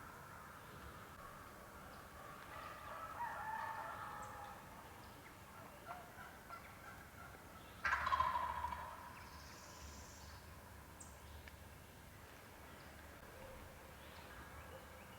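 Wild turkey gobbling twice: a fainter gobble about three seconds in and a louder one about eight seconds in.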